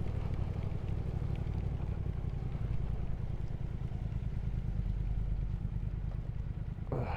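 Motorcycle engine running steadily at low speed, with wind and road noise rushing over it.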